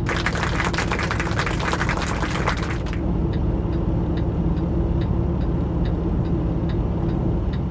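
Semi truck's diesel engine running steadily while reversing the trailer. A rough, hissing rattle rides over it for about the first three seconds and then cuts off, leaving the engine hum with faint ticking about twice a second.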